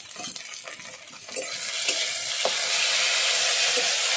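Onions with ginger, garlic and cumin pastes frying in hot oil in a steel kadai, with light scrapes of stirring. About a second in, a loud sizzle rises and holds steady as fresh paste meets the hot oil.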